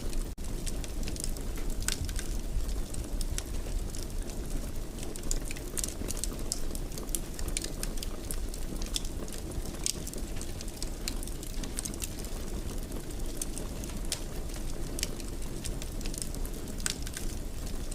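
Wood fire burning in a fireplace: a steady low rumble of flames with frequent irregular crackles and pops. The sound cuts out for an instant near the start.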